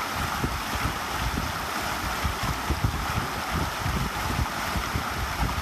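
A stream running steadily, with wind buffeting the microphone in uneven low gusts.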